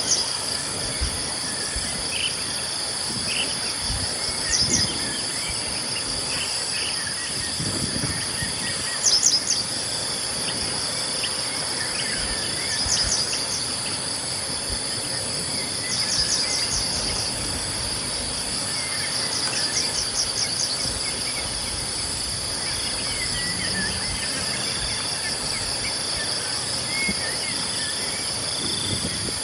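A steady, high-pitched chorus of insects, joined every four seconds or so by a short, rapid chirping trill, with scattered faint bird calls.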